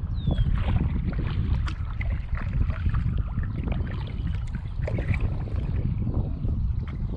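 Wind buffeting the microphone in a steady low rumble, with irregular splashing and dripping of water from kayak paddling.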